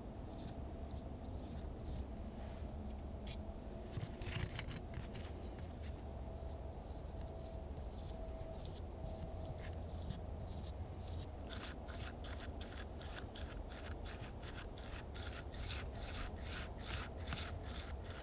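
Repeated quick scraping strokes, about three a second, set in about two-thirds of the way through, with a few scattered scrapes before. A steady low hum lies underneath throughout.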